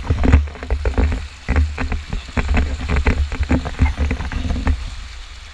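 River water splashing and sloshing in quick, irregular bursts over a low rumble on the microphone; the splashing thins out near the end.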